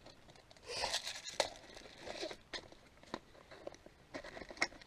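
Rustling and a scatter of light clicks and knocks: rifle magazines being pushed into an ALICE gear magazine pouch and the pouch being handled.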